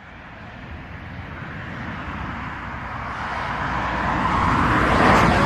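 A road vehicle approaching and passing close by: the sound of its engine and tyres grows steadily louder and peaks near the end.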